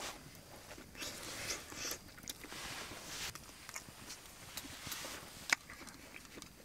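A person eating close to the microphone: soft chewing and biting on bone-in pork steak, with small clicks and one sharper click near the end.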